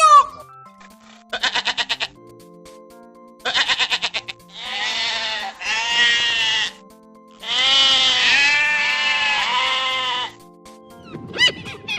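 Bleating livestock: two short, rapidly quavering bleats, then several long, wavering bleats, over soft background music.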